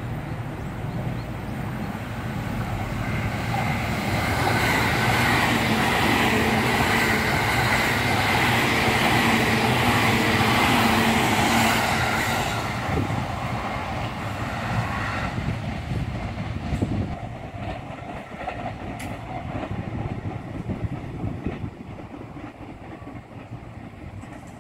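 JR East E657 series electric limited express train approaching and passing close by at speed. Its running noise builds over the first few seconds, stays loud until about twelve seconds in, then fades as the train recedes.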